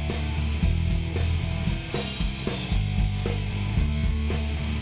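Live rock band playing an instrumental passage between sung lines: drum kit keeping a steady beat, with bass and electric guitars.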